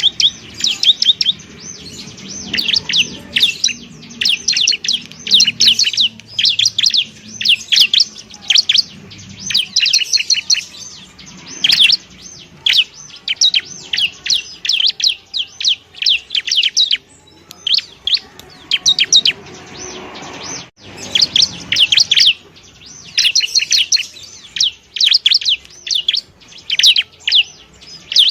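Bar-winged prinia (ciblek) song: fast runs of high, sharp chirps repeated phrase after phrase, with a brief lull about two-thirds of the way through.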